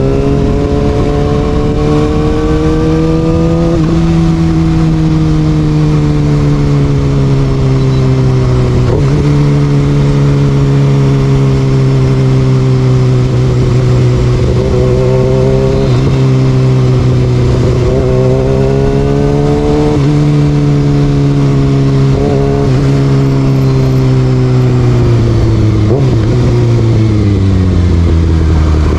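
Kawasaki ZX6R's inline-four engine with an Austin Racing exhaust, heard while riding: its pitch climbs and falls again and again as the throttle is opened and rolled off, with a sharp drop about four seconds in. A low rumble of wind runs underneath.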